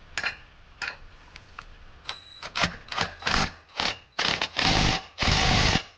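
Impact wrench hammering on a seized exhaust nut that will not break loose. It comes in short trigger bursts at first, then in longer held bursts near the end.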